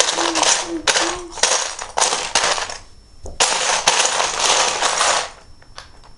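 Loose plastic Lego bricks clattering and rattling as a hand rummages through a pile of pieces, searching for a particular part, with a short pause about three seconds in and another near the end.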